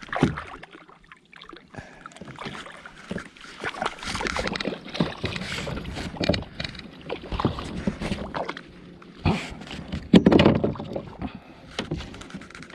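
Water splashing with irregular knocks and rattles on a fishing kayak as a hooked sebarau (hampala barb) is brought aboard. The loudest splash comes about ten seconds in.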